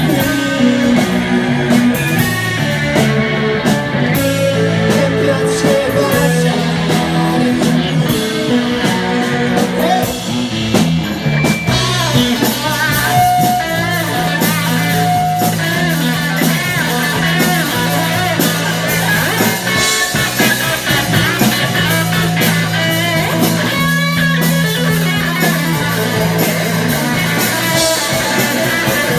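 Rock band playing with electric guitars, bass and drum kit; the sound grows fuller and brighter about twelve seconds in.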